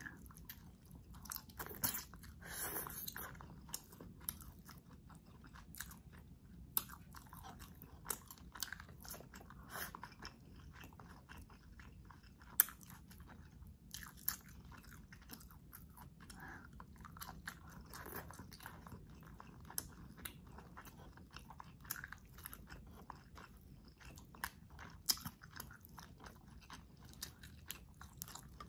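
Close-miked eating sounds: a person chewing and biting squid adobo and shrimp, with many irregular sharp wet clicks and smacks.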